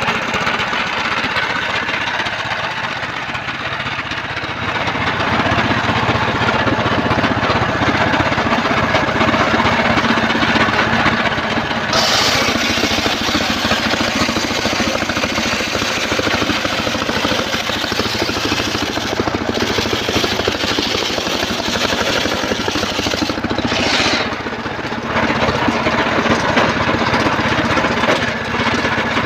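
A portable circular sawmill running: its engine drones steadily under the noise of the saw blade cutting trembesi (rain tree) timber. About twelve seconds in a harsher, higher sawing sound comes in, and it eases briefly near twenty-four seconds.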